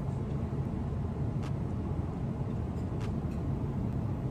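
Steady low rumble of a Boeing 777-200 airliner's cabin in cruise flight, engine and airflow noise, with a couple of faint clicks.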